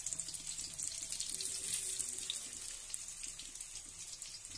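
Stuffed bitter gourds sizzling in hot mustard oil in an iron kadhai: a steady hiss with a dense scatter of fine crackles.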